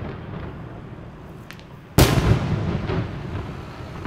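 Fireworks shells bursting overhead: the rumble of an earlier burst dies away, then one loud boom about two seconds in rolls on and fades, with faint crackles and small pops around it.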